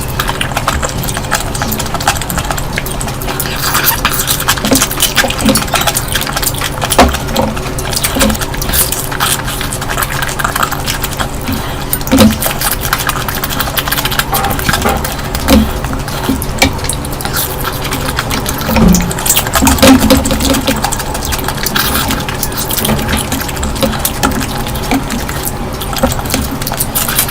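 Close-miked eating of curry: wet stirring and squelching of food, with many quick clicks and smacks, over a faint steady hum.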